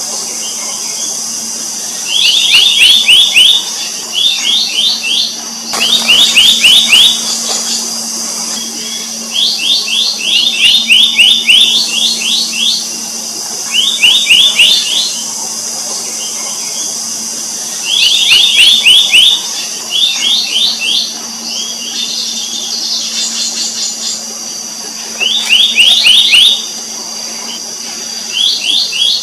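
Black-naped monarch calls: bursts of rapidly repeated high, ringing notes, each about a second long, coming every few seconds, over a steady high-pitched background drone.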